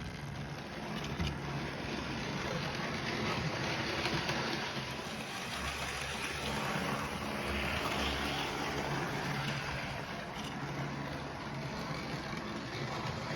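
Model train running along its track: a steady rumble of wheels on rail joints with the whir of the locomotive's electric motor.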